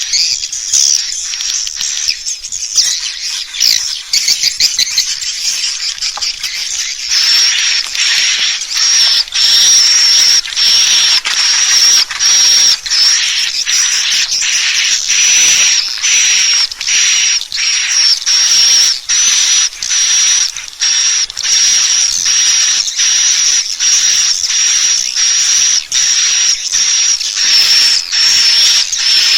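Recorded swiftlet calls played as a lure: rapid, buzzy, high twittering and chirring. About seven seconds in it turns into a steadier high chirring, broken by short gaps about once a second.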